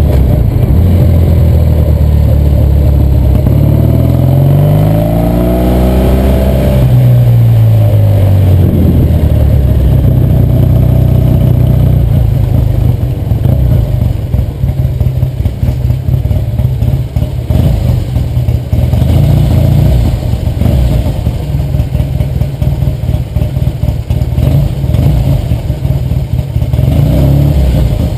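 The 650cc vertical twin engine of a 1966 Triumph TR6R Trophy motorcycle running while ridden. It revs up, rising in pitch about four seconds in, and drops back about three seconds later. From about halfway through it runs at low revs with an uneven, choppy beat.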